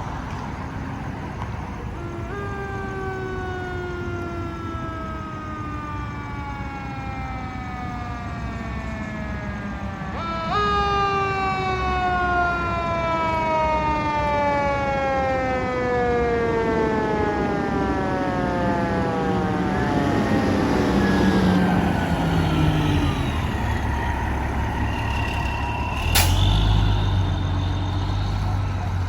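Fire engine siren sounding twice over the truck's engine and road noise, each time rising sharply and then winding down slowly. Near the end comes a sudden loud blast with a deep rumble.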